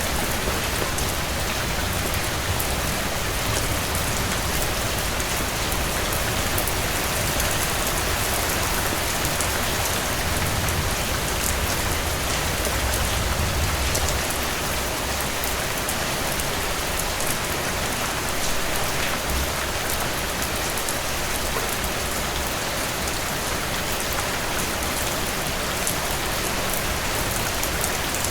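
Heavy rain falling steadily, with many small sharp ticks of drops throughout and a low rumble that swells a little about halfway through.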